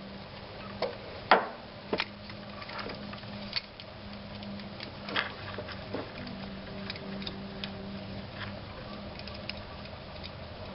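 Scattered, irregular clicks and knocks of hand tools and parts being handled, a few louder than the rest in the first couple of seconds, over a steady low hum.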